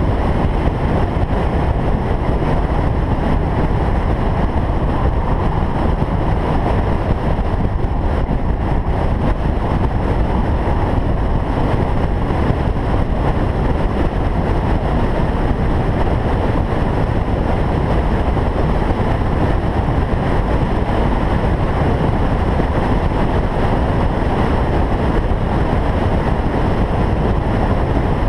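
Single-turbo Toyota Supra driving at a steady pace: a constant, even rumble of engine and road noise with no revving or gear changes.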